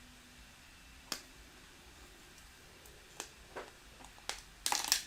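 Small plastic building bricks being handled: a few separate sharp clicks, then a short clatter of bricks rattling together near the end.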